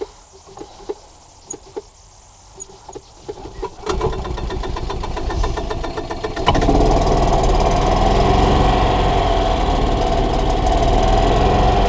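Gas Club Car golf cart engine starting about four seconds in, after a few quiet seconds with light clicks. About two seconds later it runs louder and steady under throttle, with a steady whine. The owner suspects a vacuum leak at the carburetor mounting.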